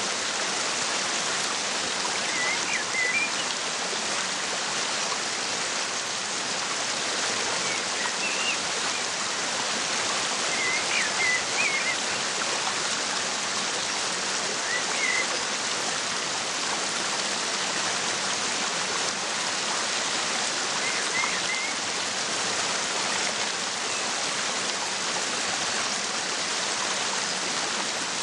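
Waterfall rushing steadily, with a few faint, short bird chirps scattered through it.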